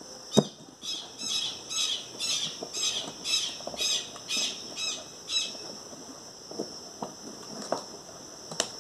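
A bird squawking about ten times in a row, roughly two calls a second, over a steady high insect trill. A sharp knock comes just before the calls, and a few light knocks from handling the metal machine come later.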